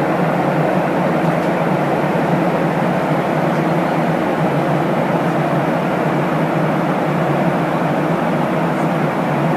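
Steady cabin noise inside a Boeing 737-800 airliner: an even, low-pitched rush of noise that holds a constant level.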